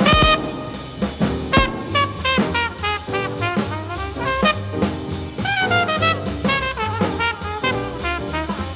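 Live modern-jazz sextet of trombone, alto saxophone, trumpet, piano, bass and drums playing a brisk melody line in the horns over bass and drums. A sharp drum hit lands right at the start and another about a second and a half in.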